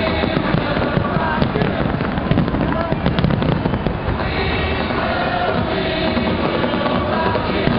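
Fireworks bursting and crackling continuously, a rapid stream of bangs, over music with held tones.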